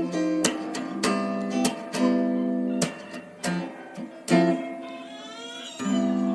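Music on acoustic guitar: a run of plucked and strummed chords, each struck sharply and left to ring.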